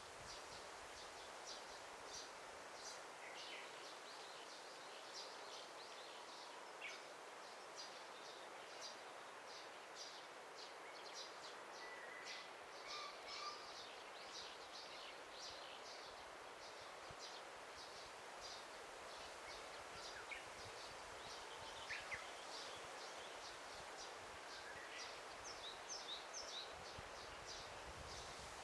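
Faint forest ambience: a steady soft hiss with many short, high bird chirps throughout and a few brief whistled bird calls.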